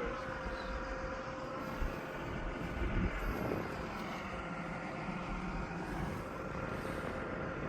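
Light propeller aircraft's engine running nearby, its pitch sliding down and then rising again, over low wind rumble on the microphone.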